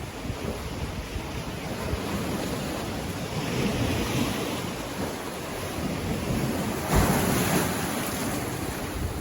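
Sea waves breaking on a beach: a continuous surf wash, with a louder wave crashing about seven seconds in. Wind buffets the microphone.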